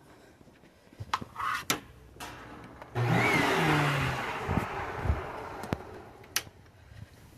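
A few clicks and knocks, then a Hoover WindTunnel upright vacuum's motor starts with a sudden loud rush of air about three seconds in and fades away over the next three seconds.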